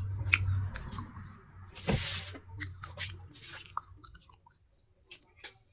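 A person chewing and crunching pieces of baked clay pot close to the microphone, in a run of sharp crackles with one loud crunch about two seconds in, fading out near the end.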